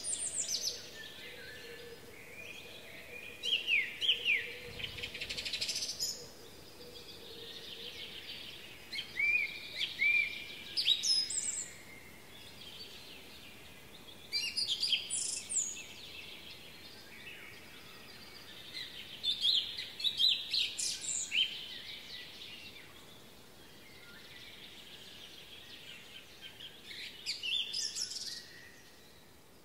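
Songbirds singing: one bird repeats a short, loud phrase of quick chirps and slurred whistles about every five seconds, over steady fainter chirping from other birds.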